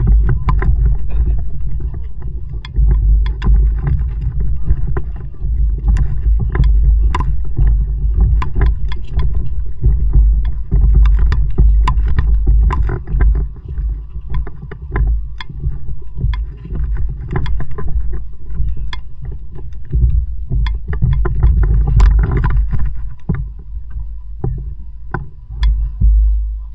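Kayak being paddled, heard through an action camera's microphone: a steady low wind rumble on the mic, with frequent short splashes and drips of water from the paddle.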